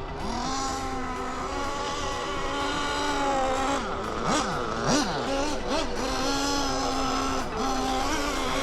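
O.S. Speed AD3 nitro engine in an RC car running at a steady pitch, still being broken in. Near the middle it drops sharply in pitch a few times and quickly picks back up, as the throttle is let off and reapplied.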